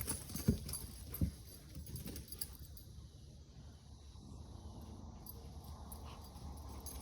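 A dog making faint sounds, with two short low noises about half a second and a second in.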